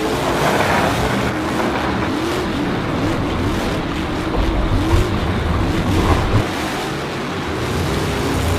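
Engine noise of racing vehicles, steady and dense, with short rises in pitch again and again.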